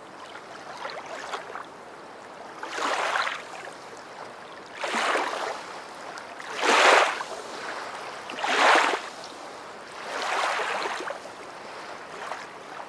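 Water splashing in short rushes, about five of them roughly two seconds apart, around a swimming ruddy duck.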